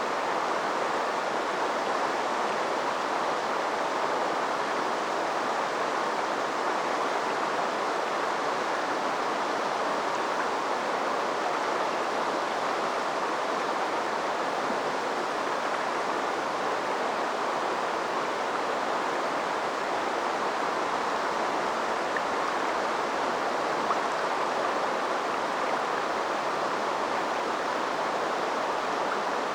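River water flowing: a steady, unbroken rush that stays at the same level throughout.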